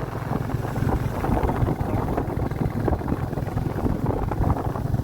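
Royal Enfield Classic 350's single-cylinder engine running at a steady pace while riding, a fast even thump, with wind rushing over the microphone.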